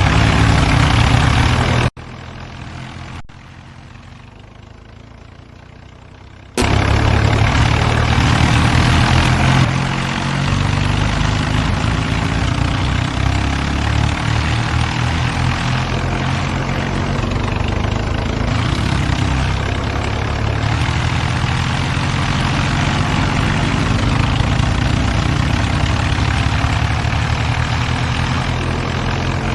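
Diesel tractor engines running loudly with a deep, pulsing rumble. About two seconds in, the sound drops much quieter for around four seconds, then comes back at full level.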